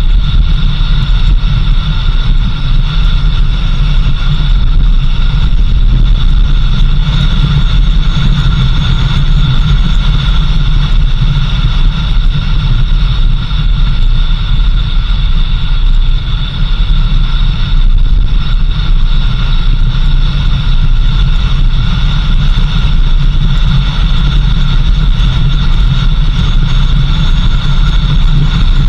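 Vehicle driving steadily, with a heavy low engine and road rumble and steady high-pitched tones over it.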